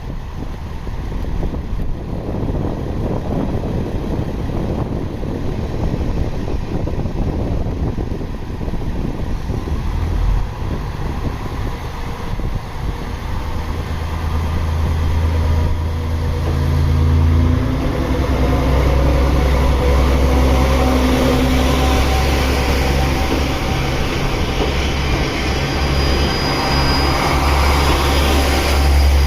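Diesel railcar engine running, growing louder as the train draws near, with steady engine tones setting in about halfway through and a faint high whine near the end.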